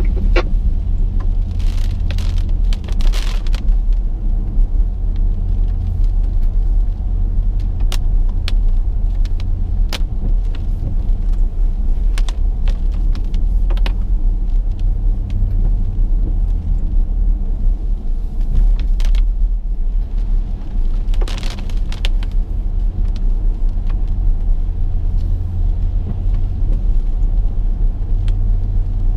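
Steady low rumble of a car driving in the rain, with irregular sharp taps and clicks scattered through it.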